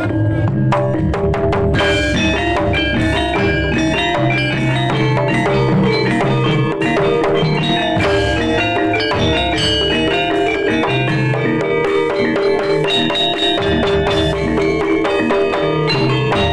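Kendang drumming in jaipong style within jaranan ensemble music: quick, dense drum strokes over a melody of pitched percussion and recurring low bass notes.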